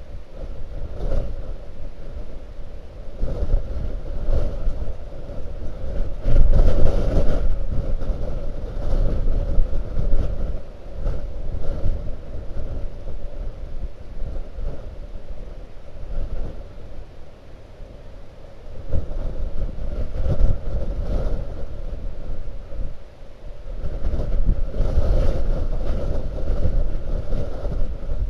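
Blizzard wind buffeting the microphone in gusts, a low rumbling roar that swells and eases, strongest about six seconds in and again near the end.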